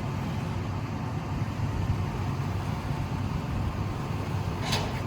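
Car driving, with a steady low rumble of engine and road noise. A single short click comes near the end.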